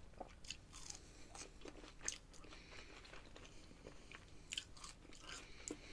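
Chewing a mouthful of crispy spicy fries: faint scattered crunches, the sharpest about two seconds in and again at about four and a half seconds.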